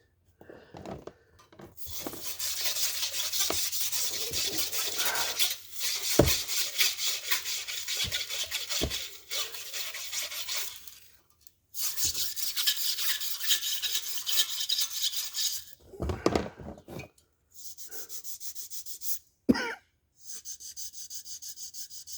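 Stiff brush scrubbing rust inside a Chevy 283 cast-iron engine block, in fast back-and-forth strokes. It comes in several long spells with short pauses between them, and a few knocks of the brush against the iron.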